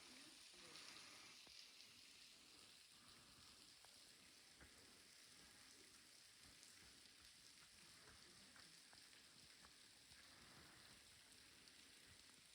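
Near silence: a faint steady hiss with scattered small crackles.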